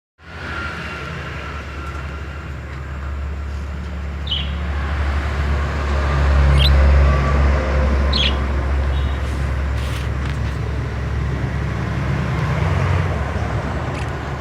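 A steady low rumble like nearby traffic, over which a caged lovebird gives a few short, high chirps about four, five and eight seconds in.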